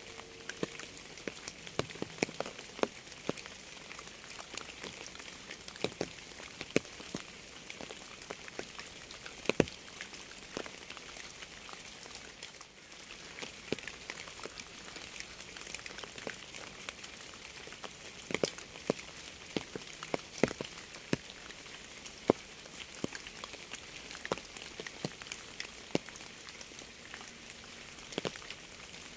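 Steady rain with many separate drops landing close by, heard as sharp, irregular ticks over a soft hiss.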